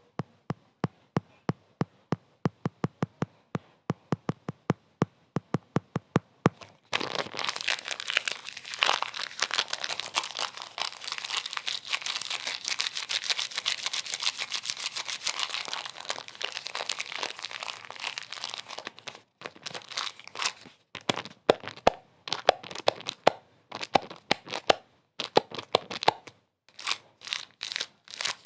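Sharp crackling clicks, a few a second and quickening. About seven seconds in they merge into a dense crinkling crackle, which breaks up into separate clusters of clicks from about nineteen seconds on.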